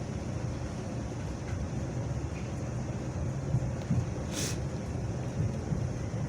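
Steady low rumble inside a Class 350 Desiro electric multiple unit, with a short hiss about four seconds in.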